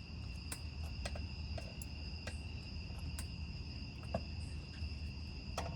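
Scattered light clicks and taps of a brake pad being worked into a front brake caliper bracket, over a steady high trill of crickets.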